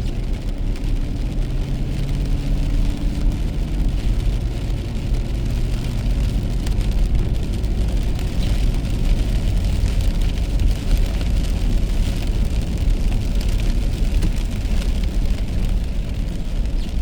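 Car driving on a wet road in the rain: a steady low road rumble with a hiss of tyres on wet pavement and rain. A low engine hum fades out in the first few seconds.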